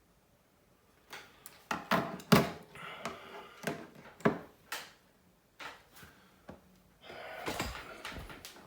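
Sharp clicks and knocks of small tools and phone parts being handled on a workbench, coming in a quick run after about a second, then a few sparser ones, followed by rustling and a couple of low thuds near the end.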